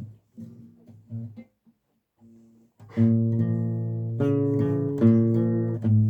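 Guitar: a few scattered plucked notes, then from about halfway in full chords strummed steadily with a strong bass note.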